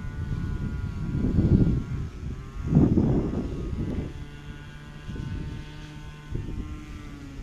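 Ducati Monster 1200 S's L-twin engine through a Termignoni exhaust, rumbling with two throttle surges about one and a half and three seconds in, then settling to a lower, steady idle from about four seconds.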